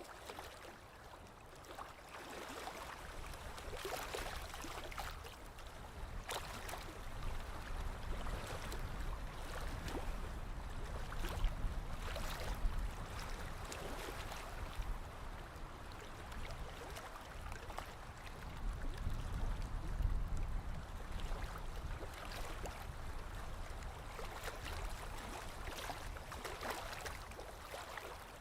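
Small lake waves lapping against the shore: irregular soft splashes and gurgles, with a low rumble underneath.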